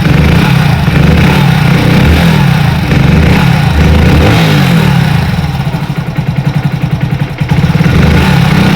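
Hero HF Deluxe BS6 single-cylinder air-cooled engine running, briefly revved a couple of times, with a rattling, ticking noise from the top end. The mechanic puts the noise down mainly to tappet clearance, with a loose timing chain also suspected.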